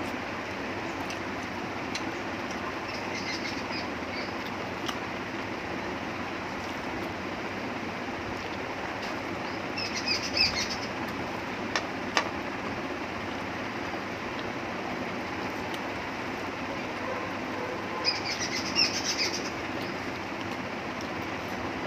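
Steady background hiss with three short bursts of small-bird chirping, about three seconds in, ten seconds in and near the end. A few soft clicks of eating, hand mixing rice and chewing, come in between.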